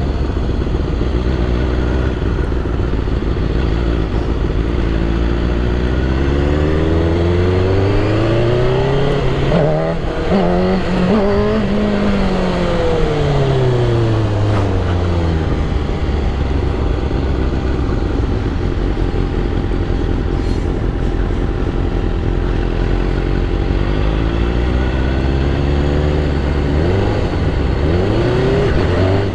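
BMW S1000RR inline-four superbike engine pulling up through the revs for several seconds and winding back down, running low and steady for a while, then climbing again near the end.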